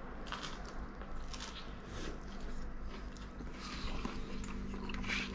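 People chewing and biting into slices of pizza close to the microphone: irregular soft crunches and mouth sounds over a faint steady hum.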